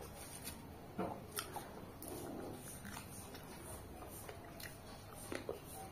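Soft wet chewing and lip smacks from a person eating mandarin orange segments, with a few sharp mouth clicks, one about a second in and another near the end.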